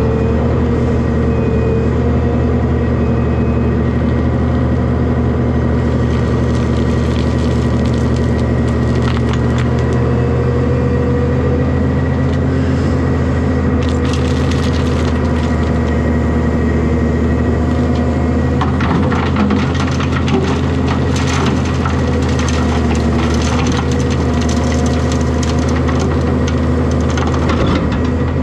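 Hyundai excavator's diesel engine running steadily under load, with stretches of crunching and crackling as its bucket digs and dumps dirt and rock: a few seconds in, again about halfway, and for most of the last ten seconds.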